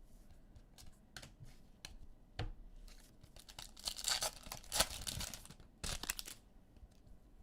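Wrapper of a football trading-card pack being torn open, with light clicks and rustling of cards being handled; the longest tear comes about four seconds in.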